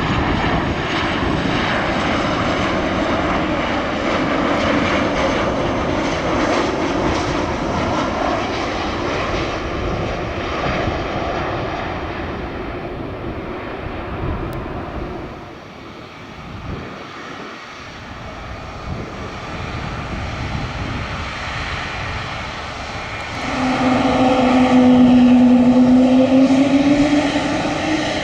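Airliner engine noise: loud and rushing for the first dozen seconds, fading away, then building again into a strong, steady drone near the end that bends slightly in pitch.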